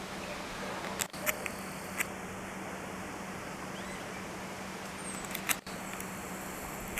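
A few sharp clicks from handling a point-and-shoot camera, over a steady low hum and hiss, with two very brief dropouts in the sound just after the clicks.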